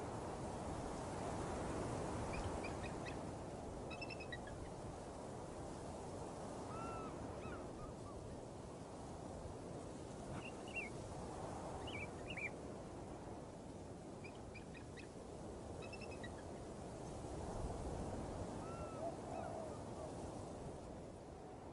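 Outdoor nature ambience: a steady low rushing noise with scattered short, high bird chirps and a few low calls.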